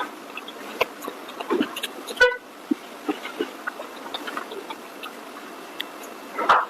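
Close-up eating sounds: scattered small clicks and smacks of chewing, with one brief horn-like tone about two seconds in.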